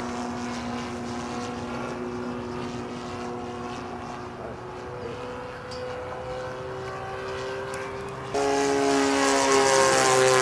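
Cessna 150's four-cylinder Continental O-200 engine and propeller droning steadily, the pitch drifting a little. About eight seconds in it suddenly becomes louder and brighter.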